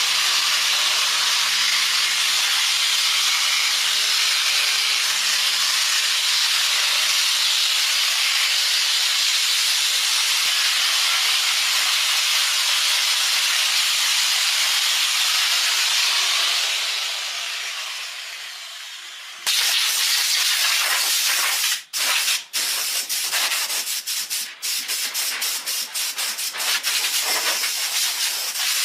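Steady hissing rush of a workshop tool at work, which fades out over a couple of seconds. After a cut, a similar hiss comes back in many short stop-start runs.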